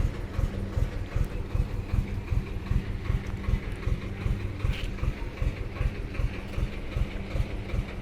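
Mini tractor engine idling with a steady, even low chugging.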